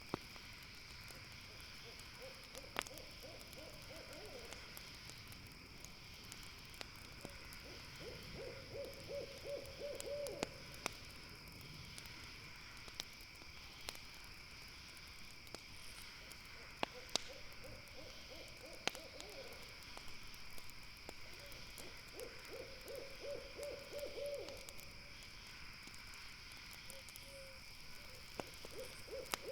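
An owl calling in quavering, rapidly pulsed series of hoots, five times, each lasting two to three seconds. Under it runs a steady high insect chorus, and campfire crackles give occasional sharp pops.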